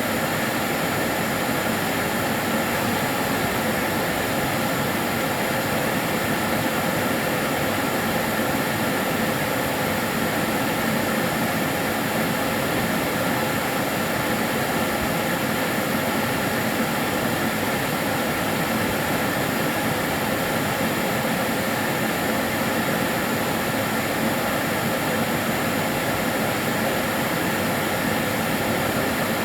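Karcher DS 6 Premium water-filter vacuum cleaner running steadily, a constant whooshing motor and airflow noise with faint steady whining tones on top.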